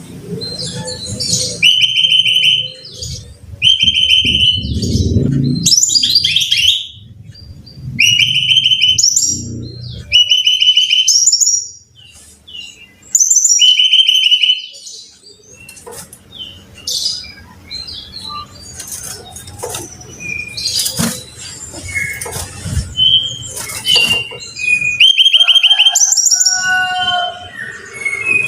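Brown-chested jungle flycatcher singing. It repeats short trilled phrases about every two seconds, then shifts to scattered shorter notes and calls in the second half, over a low rumble during the first ten seconds or so.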